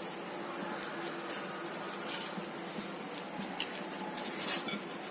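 Sugar syrup with rasgulla balls cooking in it on the stove: a low steady hiss with a few brief crackles.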